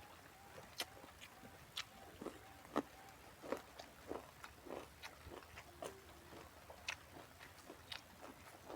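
Close-up eating sounds: mouth-noisy chewing and crunching, with irregular sharp crunches a few times a second, as fresh raw vegetables are bitten and chewed with a bitter ขี้เพี้ย dish.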